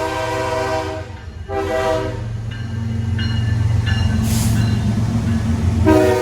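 Diesel freight locomotive horn sounding in repeated blasts, a long one cut off about a second in, a short one just after, and another near the end, over the steady low rumble of the passing train. Between the blasts a higher, broken tone sounds for a couple of seconds.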